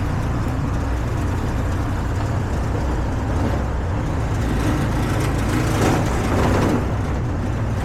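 Road traffic: a steady low rumble of vehicle engines, briefly louder about six seconds in as if a vehicle passes close.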